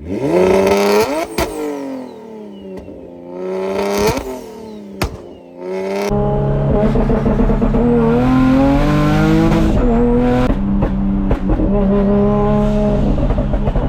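A car engine revved hard twice, each rev climbing and falling back with a sharp crack from the exhaust. After about six seconds it runs on loud and steady, its pitch stepping up and down.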